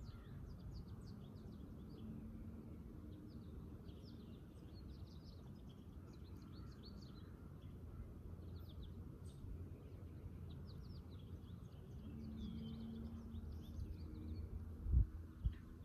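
Songbirds chirping and singing throughout over a steady low outdoor rumble, with two sharp low thumps near the end.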